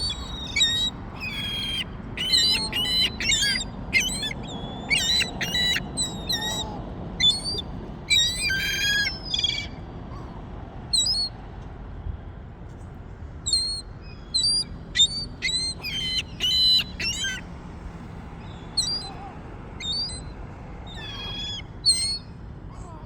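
Gulls calling over and over in short, harsh calls. The calls come thick through the first half, thin out, then bunch up again in two later flurries, over a steady low background rumble.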